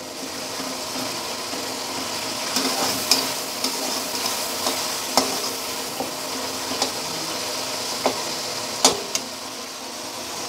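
Chopped tomatoes and onion frying in oil in a nonstick kadai over a high flame: a steady sizzle. A slotted spatula stirs and scrapes through them, clicking against the pan about once a second through the middle stretch.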